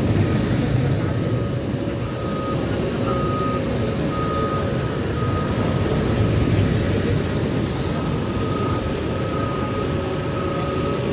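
Heavy diesel construction machinery running steadily, with a reversing alarm giving evenly spaced high beeps.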